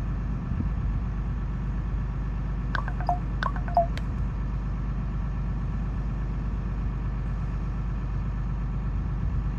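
Steady low rumble of an idling engine. A few sharp clicks and two short, higher notes come about three to four seconds in.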